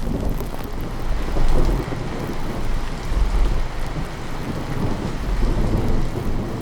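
Steady rain with low rolling thunder that swells and fades several times.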